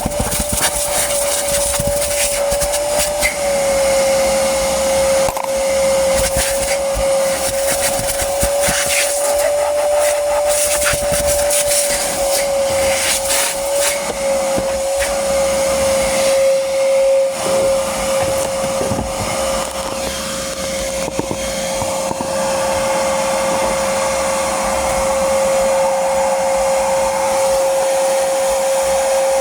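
Vacuum cleaner running with a steady high whine, with many sharp clicks and rattles through the first half.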